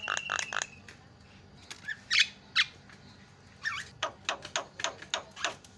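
Javan myna (jalak kebo) calling: a fast run of short repeated notes at the start, two loud harsh squawks about two seconds in, then a quick string of chattering notes near the end.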